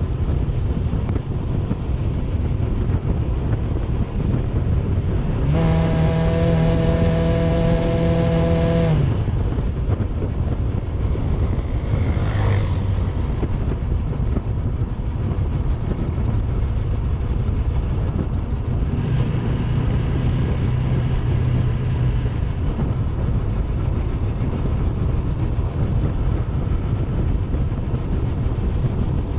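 AKT GP 180 motorcycle under way, its running mixed with a steady wind rumble on the microphone. About five seconds in, a steady pitched tone sounds for around three seconds, and a fainter one comes later, from passing traffic.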